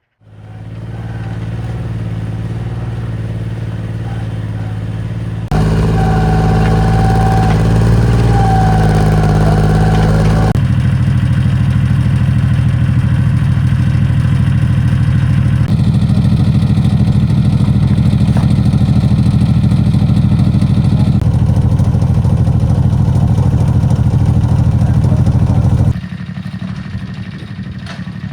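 Mini excavator's diesel engine running steadily. Its note and loudness change abruptly several times.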